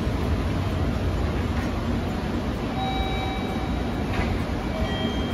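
Train rolling through the station: a steady low rumble with a few brief faint squeals.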